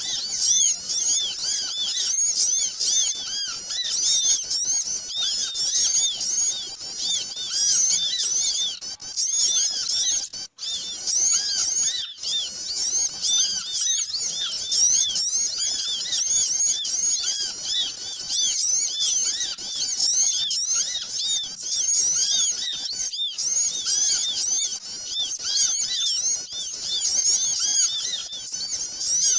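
Many small birds chirping and twittering at once, a dense, busy chorus of short high-pitched chirps that never lets up: a bird-lure call track used to draw small birds in.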